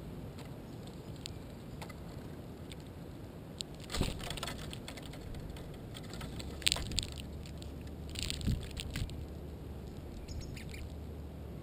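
Small birds moving close to the camera: a few short scratchy clicks and rustles of feet and wings, about four seconds in and again twice later, over a low steady hum.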